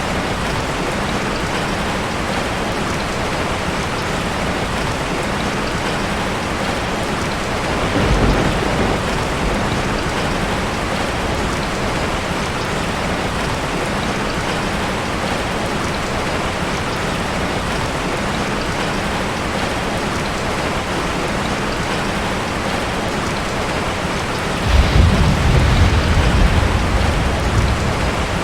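Heavy rain drumming steadily on a tin roof. Thunder rumbles briefly about eight seconds in, and again longer and louder from about twenty-five seconds until near the end.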